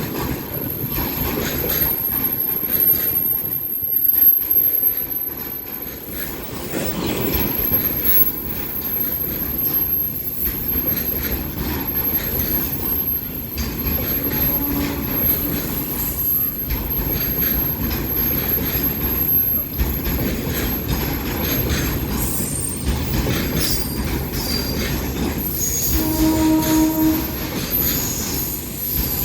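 Freight train of automobile-carrier wagons running past, the wagons' wheels on the track making a steady loud noise with a thin, high wheel squeal. A brief pitched tone sounds near the end.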